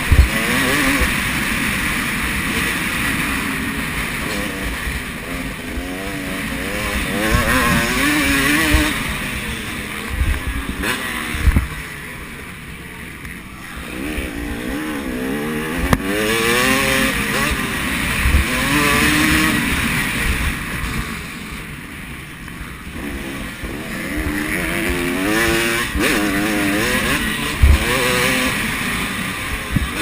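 Motocross bikes racing past, engines revving up and down through gear changes, the sound swelling and fading as riders come and go, with quieter stretches about halfway through and again later. Occasional short low thumps.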